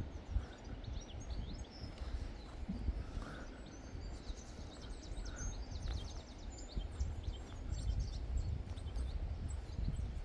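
Small birds singing with fast, high twittering that becomes busier about four seconds in, over a low, uneven rumble of wind on the microphone.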